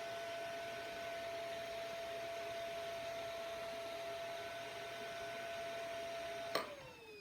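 Motherboard PC speaker sounding one long steady beep, the BIOS warning for missing memory, as the board has no RAM installed. Near the end the beep stops with a click and a short falling whine follows as the power is cut.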